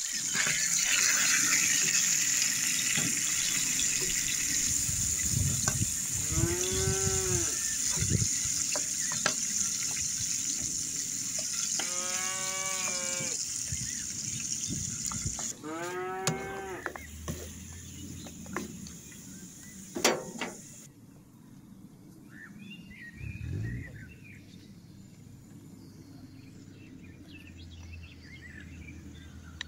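A cow mooing three times, long calls that rise and then fall in pitch, over the steady sizzle of lamb pieces frying in a pan on a wood stove. The sizzle fades in the second half, and there is one sharp knock about twenty seconds in.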